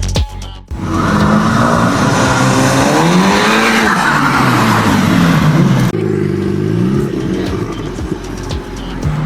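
Sports car engine revving and accelerating, its note climbing and dropping again through the revs, with a sudden cut to another pass about six seconds in. An electronic music beat continues underneath.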